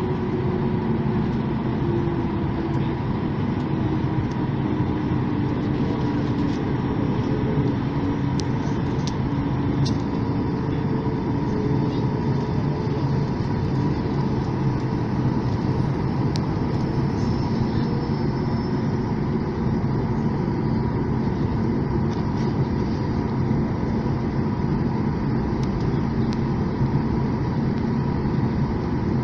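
Steady cabin noise inside a Boeing 737 MAX 8 on the ground before takeoff: engine and air-conditioning hum, with a low tone slowly sinking in pitch over the first dozen seconds and a few faint clicks.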